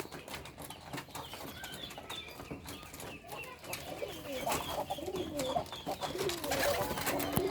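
Local-breed domestic pigeons cooing, low rolling coos repeated and growing louder from about halfway through, with a run of short high chirps before them.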